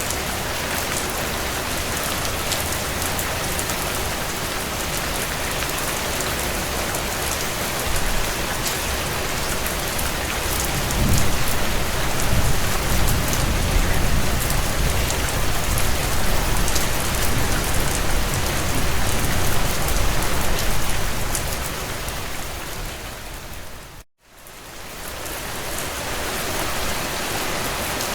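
Heavy rain pattering steadily on window panes, with faint crackling from a wood fire beneath it. About a third of the way in, a low rumble swells in and lasts roughly ten seconds. Near the end, the whole sound fades out to a moment of silence and fades back in.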